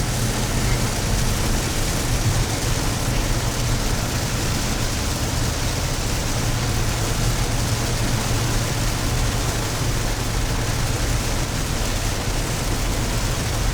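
Steady noise inside a moving car on a wet road: rain on the car mixed with tyre and road noise over the low, even hum of the engine.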